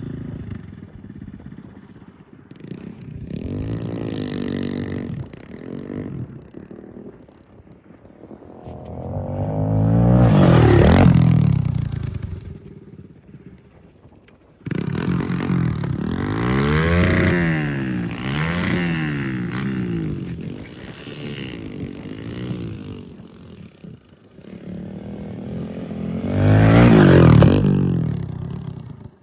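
Pit bike engine revving up and down through the gears as it rides the track, passing close by twice, about a third of the way in and near the end.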